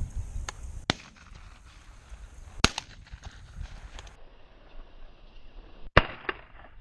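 Shotgun shots: sharp reports about a second in, near the middle, and the loudest near the end, with a few fainter pops between.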